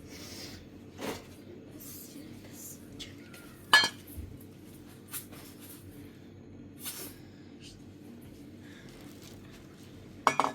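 Dishes and cutlery clinking and knocking now and then, with a sharp ringing clink about four seconds in and a quick double clink near the end, over a faint steady low hum.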